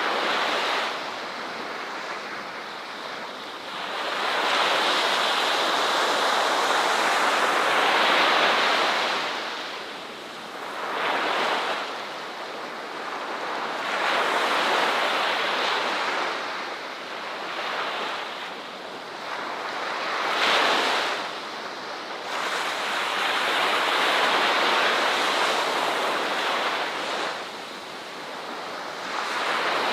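Ocean waves breaking on a beach: a steady rush of surf that swells and ebbs every few seconds, with a long loud wash about a quarter of the way in and another in the second half.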